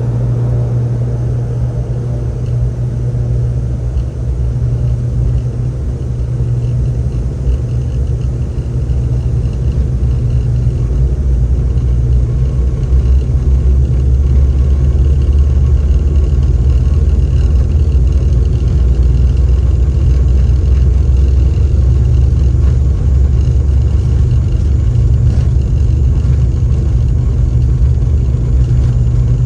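Airliner engines giving a steady, deep rumble, growing louder from about ten seconds in and then holding level, during an aircraft take-off.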